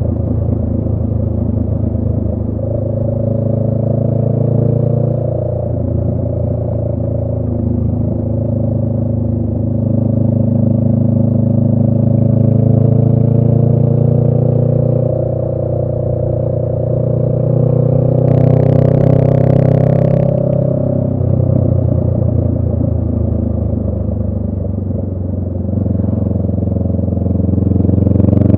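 2018 Honda Rebel 500's parallel-twin engine running through a Radiant Cycles Shorty GP aftermarket exhaust while riding, its pitch rising and falling gently with engine speed. About two-thirds of the way through, a brief hiss lasts about two seconds.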